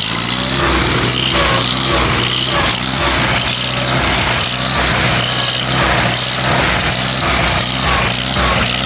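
Old tractor's engine running steadily with a loose, uneven pulse, which the owner calls running a little bit rough.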